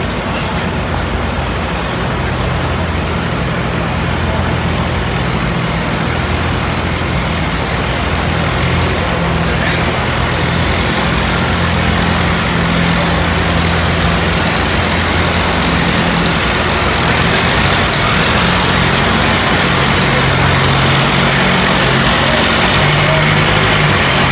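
Antique pulling tractor's engine running under heavy load, steady in pitch and growing slightly louder.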